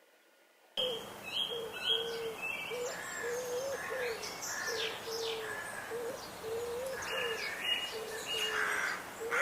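Birds calling: a steady run of short, clear low cooing notes about twice a second, with higher chirps over them, starting abruptly about a second in.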